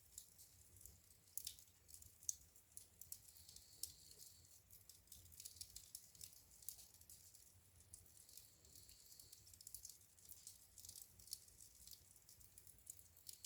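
Wood fire crackling in a fireplace: faint, irregular small pops and snaps over a soft hiss, with a sharper pop about two seconds in.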